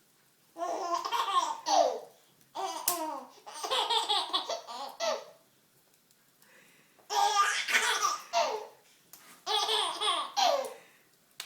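A baby laughing in four bursts of high-pitched giggles, with short quiet pauses between them.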